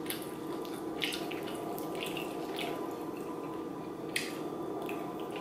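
Close-up wet chewing and lip-smacking of people eating sauced chicken wings: a scattering of short moist clicks, irregularly spaced.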